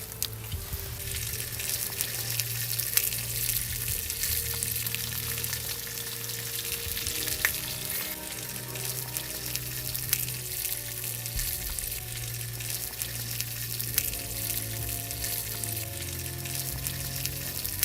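Food sizzling in a hot pan, with a dense hiss and many sharp little crackles throughout.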